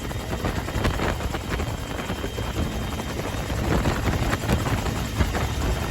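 UH-1H Huey helicopter heard from on board, its T53 turboshaft engine and two-bladed main rotor running steadily.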